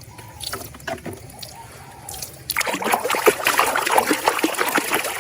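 Water splashing and trickling, starting about halfway through, as a muddy toy animal is rinsed clean. The first half holds only faint clicks of handling.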